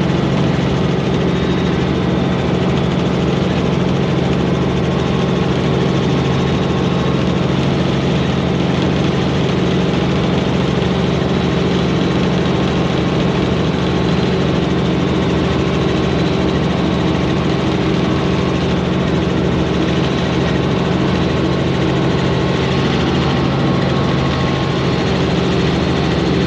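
Robinson helicopter's piston engine and rotor running steadily in flight: a loud, even drone with steady low tones that do not change.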